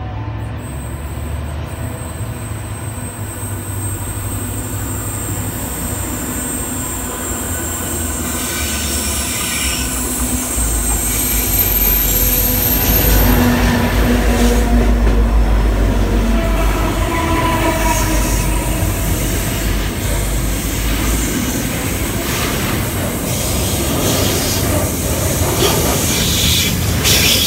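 Container freight train passing through a station. The diesel locomotives' engines rumble loudest about halfway through as they go by, then the container wagons roll past with steady wheel-on-rail noise and brief wheel squeals.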